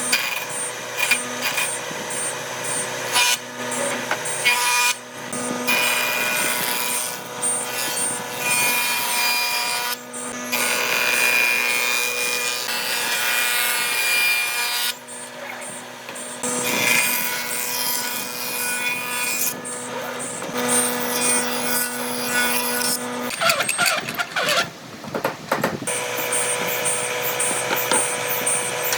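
Electric power tool running and cutting solid wood in several passes, its motor hum and the cutting noise dropping out briefly between passes.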